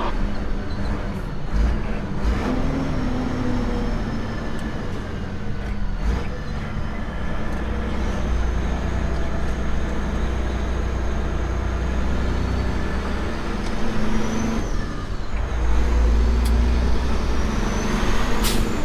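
Semi truck's diesel engine running steadily, getting louder about three-quarters of the way through, with a brief sharp noise near the end.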